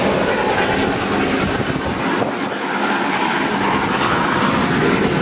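Passenger carriage of a steam-hauled train running along the track, heard from its open end platform: steady running noise of wheels on the rails.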